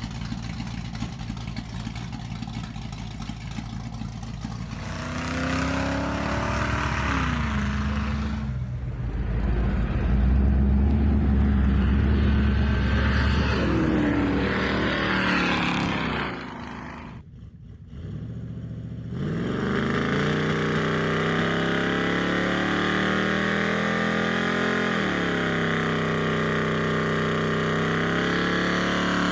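Truck engine running and being revved, its pitch rising and falling; it drops away briefly about two-thirds of the way through, then runs on steadily with slower rises and falls.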